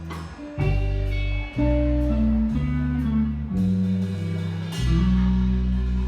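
Guitar playing instrumental chords with deep bass notes, changing about once a second, the last chord struck near the end and left ringing.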